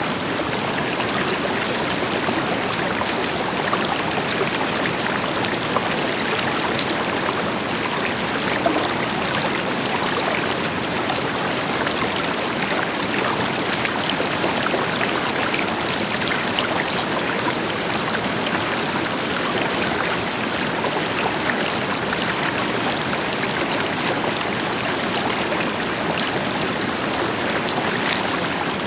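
River water flowing steadily over rocks, with a distant waterfall behind it adding a deeper rush and small splashes here and there.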